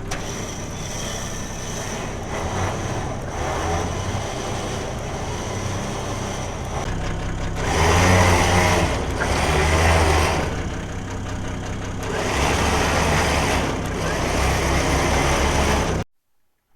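A truck's engine running steadily, then revving up in several louder swells in the second half while a car is pulled onto its back. The sound cuts off abruptly near the end.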